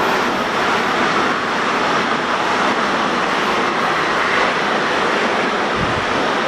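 Metro-North Kawasaki M8 electric multiple-unit train passing close by the platform at speed: a loud, steady noise of wheels on rails and rushing air.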